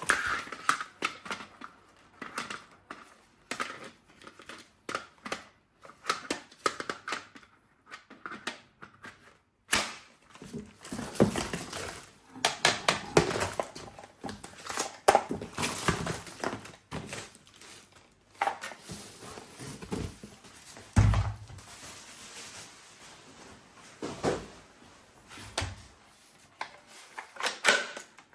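Objects being handled and unpacked: irregular clicks, knocks and crinkling, with one duller thump about three-quarters of the way through.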